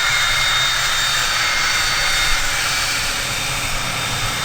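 Cessna 550 Citation II/SP's twin Pratt & Whitney JT15D turbofans running steadily, a high whine laid over a broad rushing noise.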